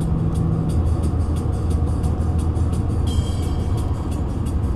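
Moving train: a steady low rumble with a quick, regular clicking of wheels on rails, and a brief high squeal a little past three seconds in.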